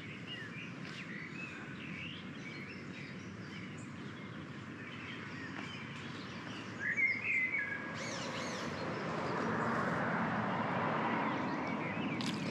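Small birds chirping and singing over a steady outdoor background, with a louder burst of chirps about seven seconds in. About eight seconds in, a louder steady rushing noise swells up and holds.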